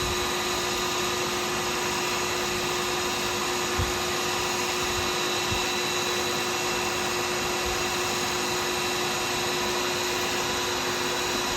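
Wood lathe running steadily, spinning a pen blank, with a constant motor hum and hiss.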